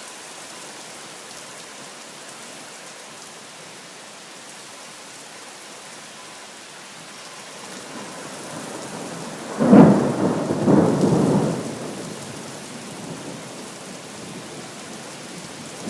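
Rain falling steadily, with a thunderclap a little past halfway: a low rumble builds, then breaks into a sudden loud crack that rolls on for about two seconds before fading back under the rain.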